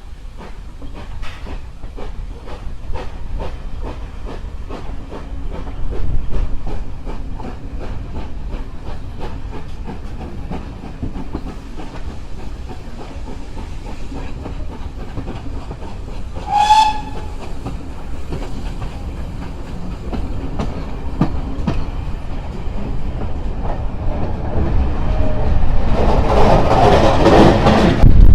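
Steam train running along the line, the wheels clacking rhythmically over the rails, with one short whistle toot about two-thirds of the way through. The noise grows louder over the last few seconds.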